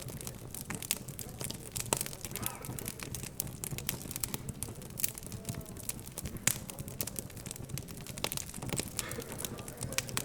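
Wood fire crackling, with frequent irregular sharp pops, over a low hum of indistinct background chatter.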